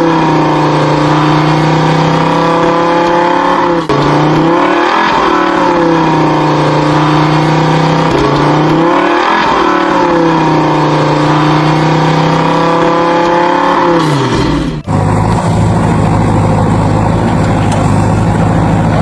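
Steady engine drone that dips in pitch and comes back up about every four to five seconds, then switches suddenly, about fifteen seconds in, to a lower, even engine hum.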